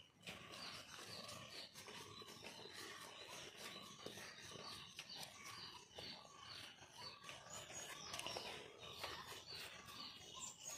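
Faint bird calls: short, falling chirps repeated about twice a second over a quiet outdoor background.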